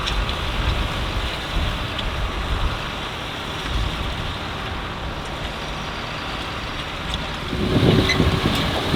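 Tractor engine running with a steady low rumble and a rushing noise, swelling louder briefly near the end.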